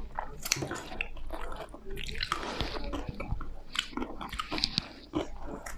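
A person chewing and biting food close to the microphone: a steady string of short mouth clicks and smacks.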